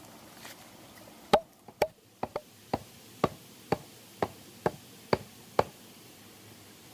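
A hand tool striking wood in a steady series of about ten sharp blows, roughly two a second, each with a short ring. The blows start about a second in and stop after about five and a half seconds; the first is the loudest.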